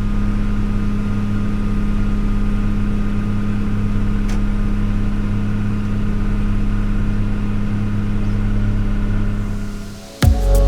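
Farm machine's diesel engine running at a steady speed with an even low hum, fading out near the end as music begins.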